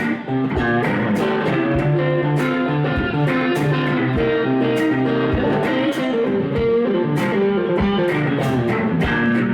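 Blues band playing an instrumental break: guitar lines over bass guitar, with drums keeping a steady beat.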